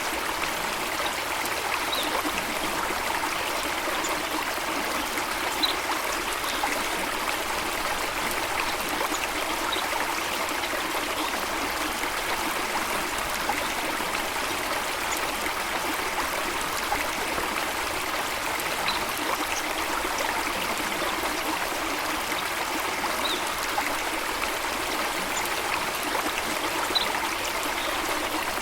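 Water running steadily in a stream, an even rushing and trickling without let-up. A few faint, brief high bird chirps sound now and then over it.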